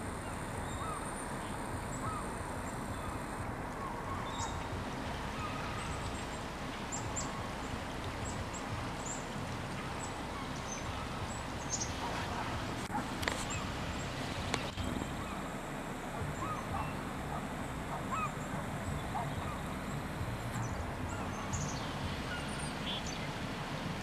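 Wild birds calling: many short, high calls scattered through the stretch, with a few louder ones about halfway through, over a steady rushing noise.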